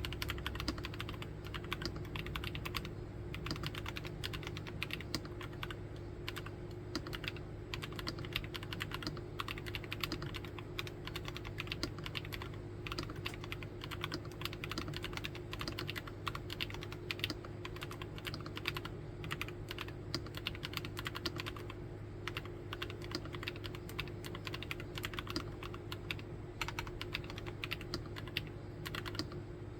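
Continuous fast typing on a Nuphy Field75 keyboard: a steady stream of key clicks and keystrokes.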